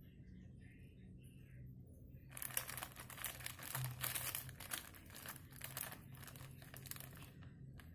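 Wrapping of a block of tempeh crinkling and tearing as it is opened. A dense run of crackling starts about two seconds in and thins to scattered crackles near the end.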